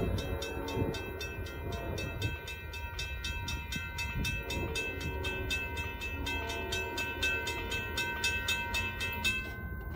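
Train passing: a low rumble with a rapid, even clicking about four times a second and a few steady ringing tones above it. The high clicking drops away shortly before the end.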